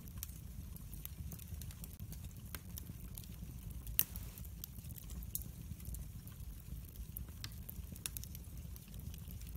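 Wood fire burning in a fireplace: a steady low rumble of flames with scattered small crackles, and one louder pop about four seconds in.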